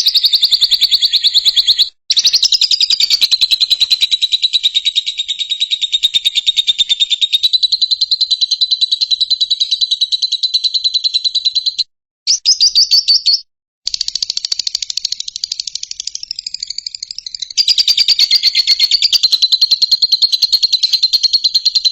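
Lovebird singing a loud, very fast chattering trill that it holds for many seconds at a time, with only a few short breaks.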